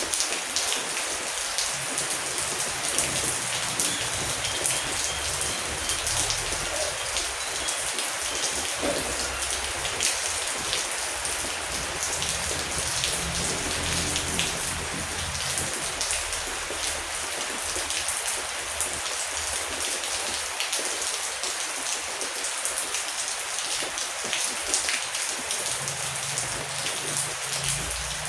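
Heavy rain falling steadily, a dense hiss with many fine drop impacts, with a faint low rumble underneath.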